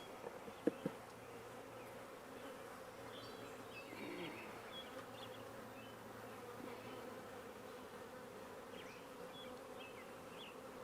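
Honey bees humming steadily over an opened hive, with a few sharp knocks about a second in.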